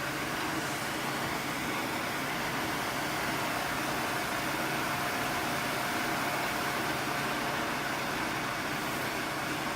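Workshop power tool motor running steadily, a constant whir with a faint steady hum.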